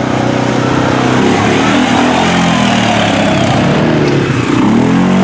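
ATV engine running and being revved as the machine pulls away; the engine pitch falls and rises several times and climbs again near the end.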